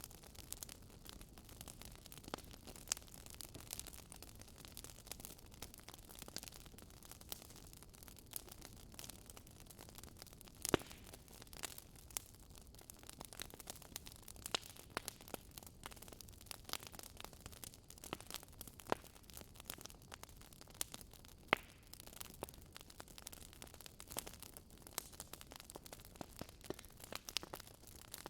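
Wood fire crackling: a low hiss with irregular sharp pops and snaps, a few louder ones scattered through.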